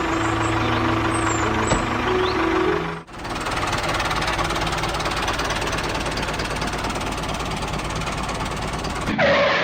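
Small motorised mini thresher machine running with a steady dense rattle. There is a sudden cut about three seconds in, and near the end a short rising swoosh.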